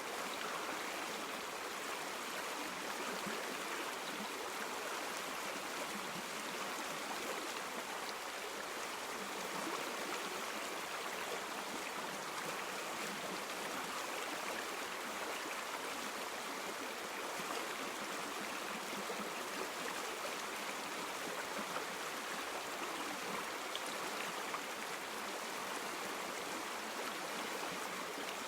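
River water flowing steadily: an even, unbroken wash of water with little deep rumble.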